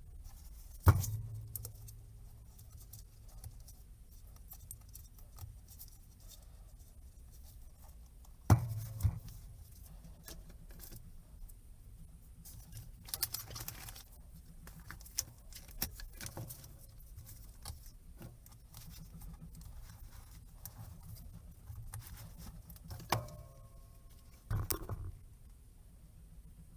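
Hands and small tools working on a rugged laptop-tablet on a workbench: scattered clicks, taps and small rattles, with a few sharp knocks, the loudest about a second in and another around eight seconds in.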